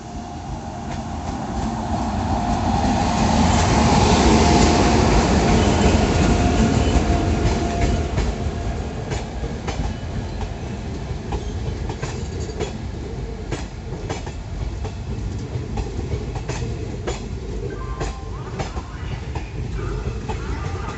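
WAG-9 electric locomotive passing close by, loudest about four to six seconds in, followed by its wagons rolling past with a run of sharp clicks from the wheels over rail joints.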